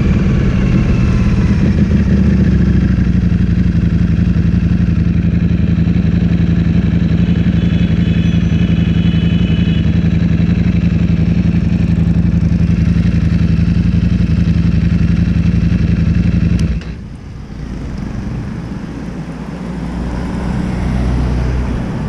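Ducati Streetfighter V4S V4 engine through an Akrapovic full-system exhaust, its note falling for the first few seconds and then holding a steady low note. About 17 seconds in the engine sound drops away suddenly, leaving a quieter low rumble.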